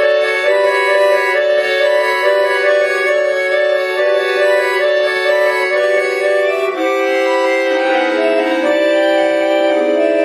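Bayan (Russian chromatic button accordion) playing a piece: sustained reed notes in a quick repeating figure, moving to longer, lower held notes about seven seconds in.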